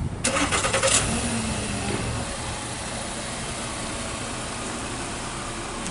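A car engine cranks for under a second and catches, then runs steadily.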